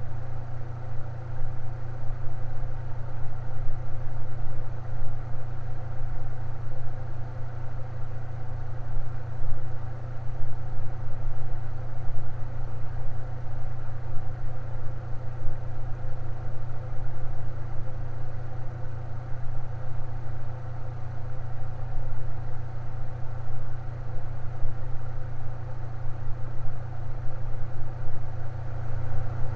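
Electric fan running steadily: a constant low motor hum with level tones over it, unchanging throughout.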